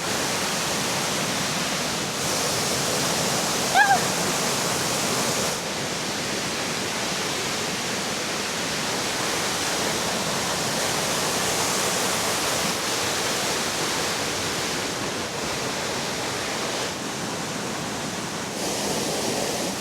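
Steady rushing of a river and waterfall, its character shifting abruptly a few times. A brief high call sounds once about four seconds in.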